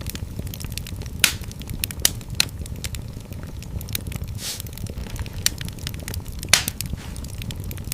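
Wood fire in a fireplace crackling: constant small snaps and a few louder pops over a steady low rumble of the flames.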